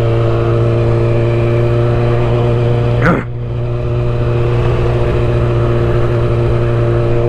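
Motorcycle engine running at a steady speed, heard over wind rumble on a helmet microphone. About three seconds in there is a brief rising-and-falling sound and the level drops for a moment, then builds back.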